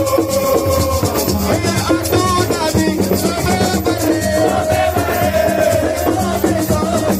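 Live band music: a steady drum and bass groove with a shaker rattling throughout, and a melody line holding a long note in the middle.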